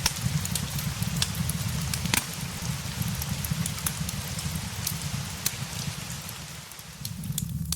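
Steady rain ambience mixed with a crackling fireplace: an even hiss of rain over a low rumble, with scattered sharp pops and crackles. The hiss thins briefly near the end.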